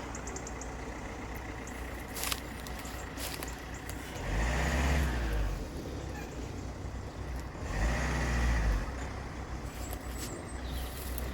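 Road vehicle engines running at a low steady level, with two louder vehicles going by, one about four seconds in and one about eight seconds in.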